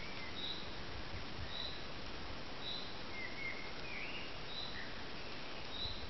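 Woodland birdsong: one bird repeating a short high chirp about once a second, with a few lower, different chirps from another call midway, over a steady background hiss.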